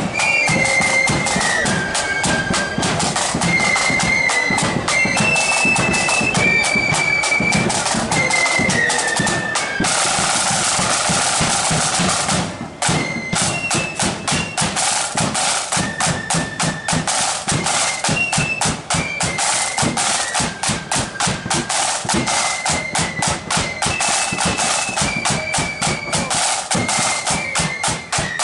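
Marching flute band playing a tune: flutes carry a high melody over rapid snare drumming and bass drum beats. About ten seconds in the melody drops out briefly under a drum roll.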